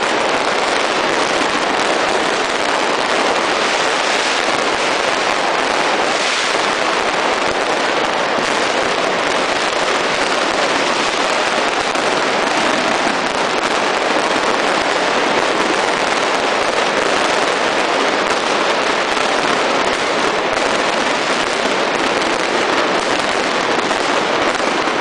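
Fireworks and firecrackers going off nonstop at close range: a dense, steady crackle of rapid bangs with no break.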